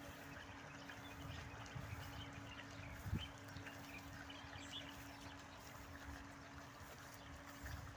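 Faint garden ambience with scattered short bird chirps over a steady low hum, and one low thump about three seconds in.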